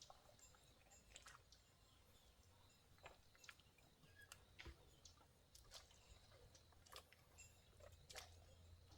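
Near silence, with scattered faint clicks and taps at irregular intervals over a low background hum.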